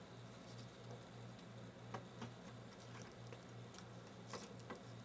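A few faint, light clicks and taps from handling the monitor's parts as the board assembly is set in place, two close together about two seconds in and two more near the end, over a low steady hum.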